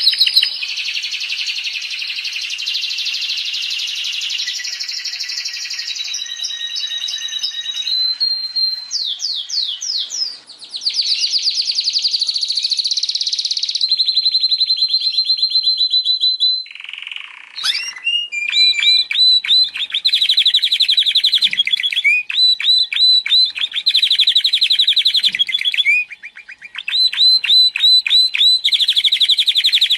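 Domestic canary singing a long, loud song of fast trills and rapidly repeated notes, with a few brief breaks. It is a lure song, played to stir a canary that has stopped singing into song again.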